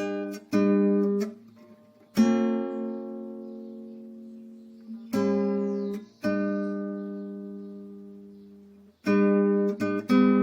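Acoustic guitar music: a few short strummed chords, then three chords struck one after another and left to ring out and fade, with quick rhythmic strumming picking up again near the end.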